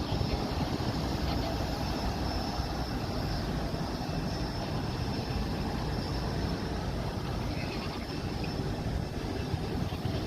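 Jet airliner engines running, a steady rumble with a faint high whine held throughout.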